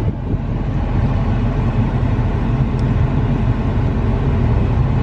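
Steady low rumble of a Ford F-350 pickup's engine and running noise, heard from inside the cab.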